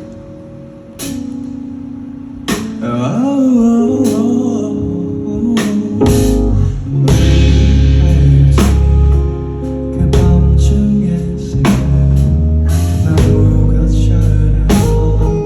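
Live band playing the song: guitar with drum-kit cymbal strokes, swelling about two and a half seconds in as bass and full drums join around six seconds in.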